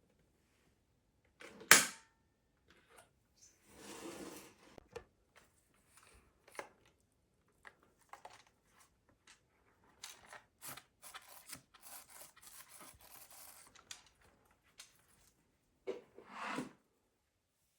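Handling noises while unboxing a cordless stick vacuum: a sharp click about two seconds in, then rustling and scattered small clicks and scrapes of packaging and plastic parts, with another rustle near the end.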